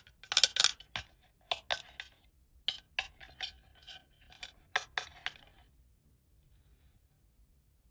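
Small hard toy pieces clicking and clinking as they are handled and set down, a quick run of sharp clicks that stops about five and a half seconds in.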